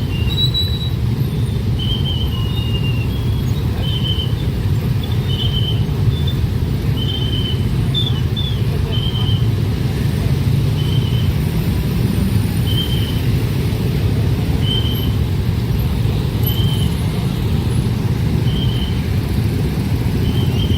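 A train passing close by with a steady low rumble. Short high tones repeat over it about once a second.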